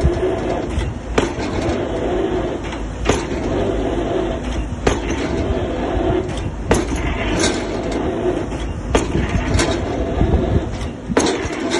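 Excavator drop hammer striking a square concrete pile, a sharp blow about every two seconds, six or so in all, over the steady running of the excavator's diesel engine.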